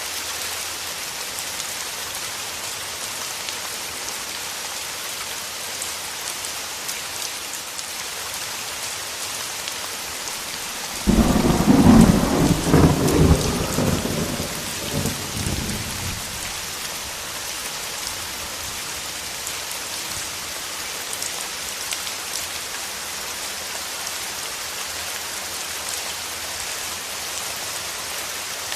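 Steady heavy rain falling, with a thunderclap that breaks in suddenly about eleven seconds in and rumbles away over the next five seconds or so.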